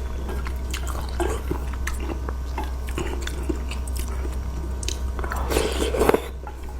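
Close-miked wet chewing of curry noodles, with many small mouth clicks and squishes. A louder, longer noisy stretch comes about five seconds in. A steady low hum runs underneath.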